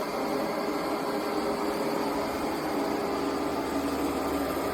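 eufy Omni C20 robot vacuum running: a steady whirring rush of its suction motor with a low, even hum.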